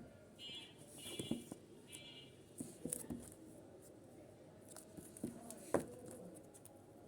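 Packaging being handled: scattered light clicks, taps and rustles, with a few short raspy scrapes or tears in the first couple of seconds.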